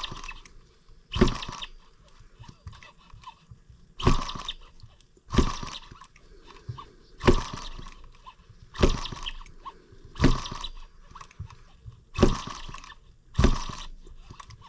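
M25 sideshaft engine being turned over by hand without firing: about nine sharp puffs, each a second or two apart, one for each turn.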